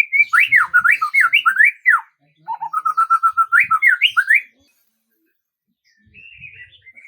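A songbird singing: two loud phrases of rapid whistled notes sliding up and down, each about two seconds long, then a short pause and fainter warbling near the end.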